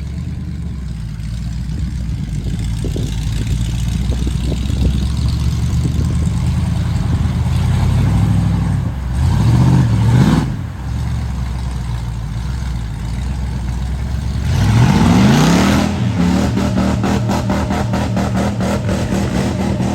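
Ford mud truck engine running at a low, steady pitch. It is revved up twice, once about halfway through, falling off sharply, and again about three-quarters of the way in, after which it holds at higher revs.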